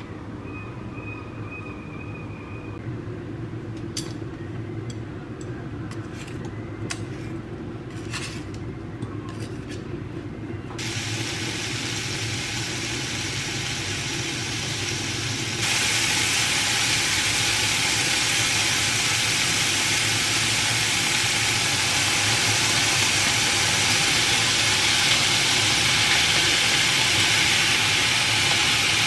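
Cubed pork belly frying in a hot pan and being stirred with wooden chopsticks, over a steady low hum. First comes a faint high tone for a couple of seconds, then a few sharp clicks and taps. The sizzling starts about eleven seconds in and turns much louder at about sixteen seconds.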